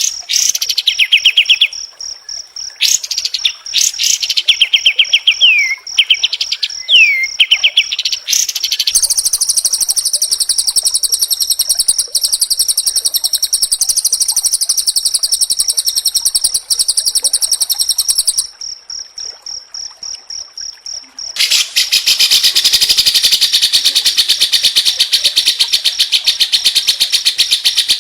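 White-rumped shama (murai batu) singing fast: quick phrases of sharp, sliding whistled notes, then long, dense, rapid rattling trills, one stopping about 18 seconds in and another starting about 21 seconds in. A steady high insect-like whine runs underneath.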